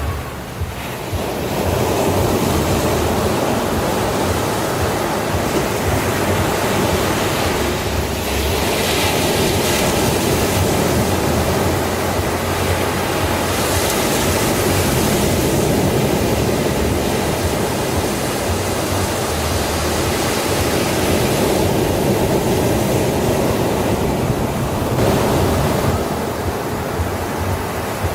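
Sea waves breaking and washing up a beach: a continuous rushing surf that swells into brighter hissing washes a few times.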